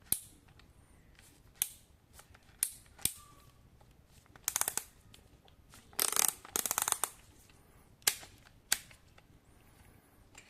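Handling clicks from a cordless drill and its plastic parts: a series of single sharp clicks, with two short bursts of rapid clattering clicks in the middle.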